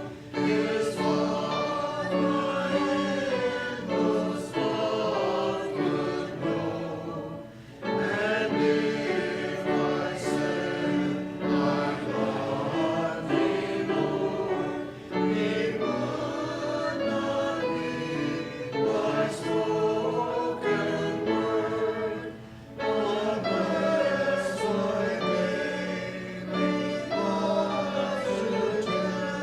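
Congregation singing a hymn together in phrases of several seconds, with short breaths between them.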